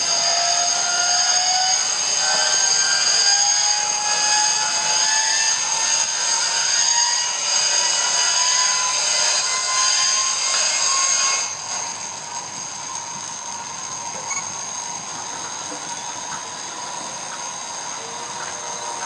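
Starting equipment of a Zero fighter's engine whining, its tone slowly rising as it spins up, before the engine fires. About eleven seconds in, the sharper part of the whine cuts off and the sound drops in level, leaving a steady tone.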